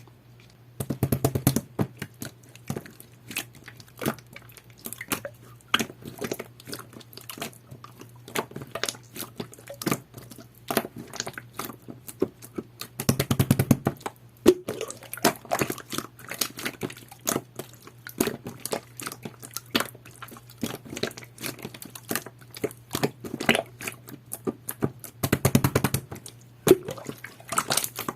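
Pearl slime with a jelly-like texture being squished and poked by hand: a steady run of wet clicks and small pops, with three denser bursts of crackling squishes about a second, thirteen seconds and twenty-five seconds in.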